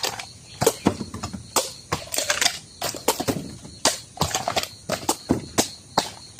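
A blade chopping into Mazhu bamboo shoots: a string of sharp, uneven chops, roughly two a second, with crackling and rustling of husks and leaf litter between them.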